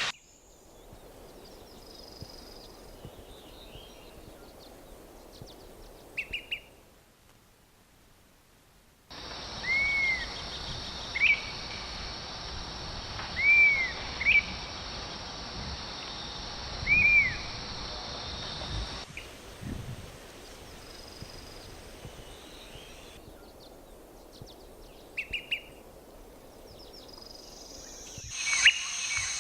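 Wild birds calling across a run of separate short field recordings: short, arched whistled notes a few seconds apart over a steady background hiss, with a quicker run of calls near the end.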